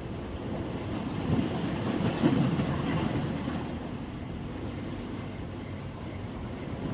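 Wind buffeting the microphone: a steady low rumbling rush that swells about one to three seconds in.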